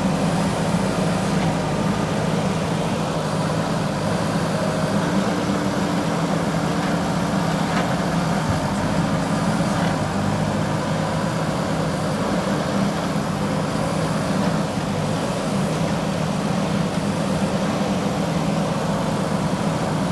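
JCB 3DX backhoe loader's diesel engine running steadily, with a low, even hum.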